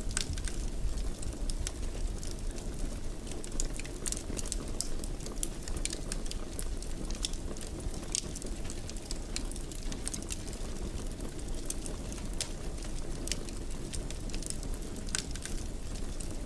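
Fire burning in a fireplace: steady low rushing with frequent irregular sharp crackles and pops.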